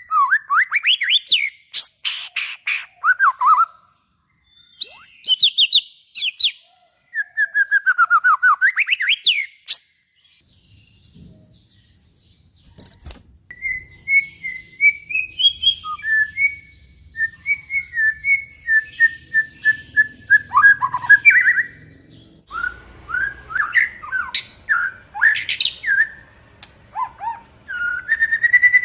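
White-rumped shama (murai batu) singing loud, fast phrases of sweeping and trilled whistles. After a pause of about three seconds a third of the way in, it delivers a run of rapid repeated notes, then more varied phrases.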